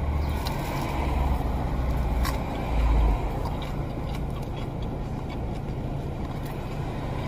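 A vehicle's engine running with a steady low rumble, swelling briefly about three seconds in, with a few faint clicks over it.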